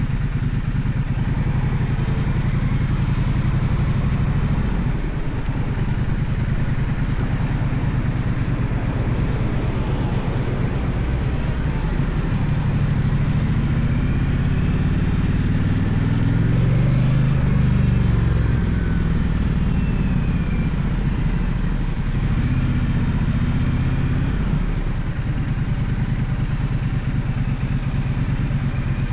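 Gaokin GK1200 motorcycle engine running under way, its revs rising as it accelerates about halfway through, peaking, then easing off, with a shorter rise again a little later.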